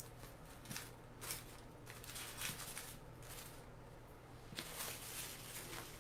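Faint rustling and brushing of greenery sprigs being worked into a wreath, a few short rustles at a time, over a low steady hum.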